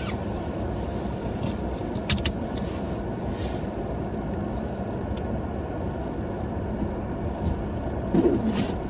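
Ford Maverick pickup running, a steady low rumble, with two sharp clicks about two seconds in.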